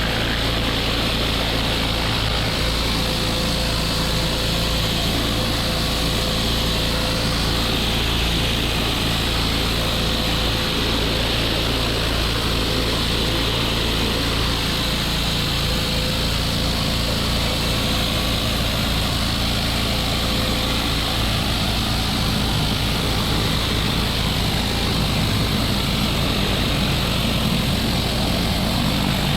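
Gas pressure washer engine running steadily, with the hiss of its high-pressure water jet spraying dirty brick.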